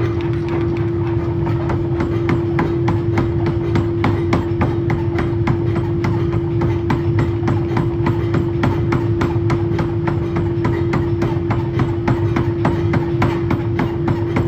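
Forging hammer striking metal rapidly and repeatedly, several blows a second in an even rhythm, over a steady machine hum at one pitch.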